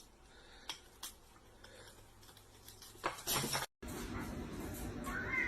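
Faint clicks, then a short clinking clatter like cutlery or dishes about three seconds in; near the end a cat starts meowing.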